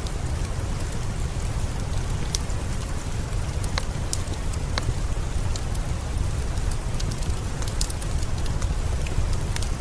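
Steady rain with a deep low rumble, mixed with a fireplace crackling: scattered sharp pops through the hiss.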